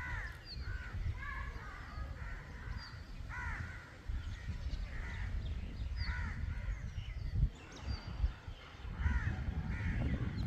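Birds calling outdoors: repeated arched calls about every second, with short thin high chirps between them. A low rumble runs underneath.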